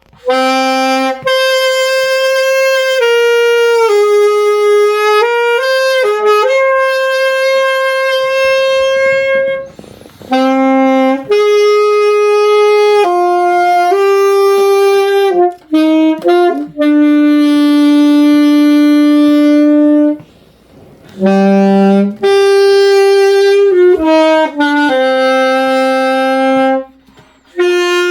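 Saxophone playing a slow melody of long, steady held notes, in phrases broken by breath pauses about 10, 21 and 27 seconds in.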